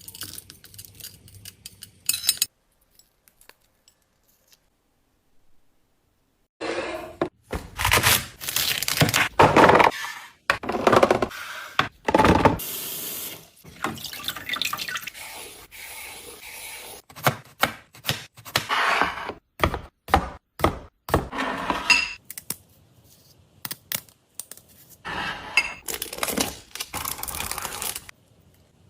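Kitchen tap running into a sink in several separate stretches, with sharp knocks and clatter in between.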